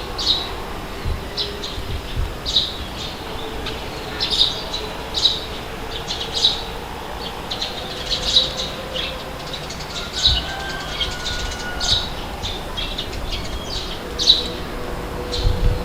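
Birds chirping: many short, sharp calls, irregular and sometimes in quick pairs, over a steady rushing background.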